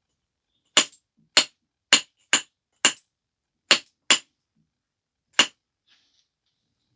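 Percussion flaking on a stone biface: eight sharp, ringing clinks as a knapping hammer strikes the edge and detaches flakes, unevenly spaced about half a second to a second apart.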